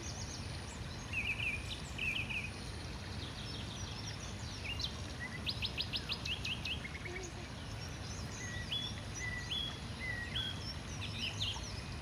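Several birds calling and singing at once: short rising chirps, repeated whistled notes and quick trills, over a steady low rumble.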